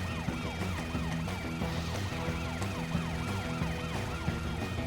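Emergency vehicle siren yelping in a fast rise-and-fall, about three to four cycles a second, over background music.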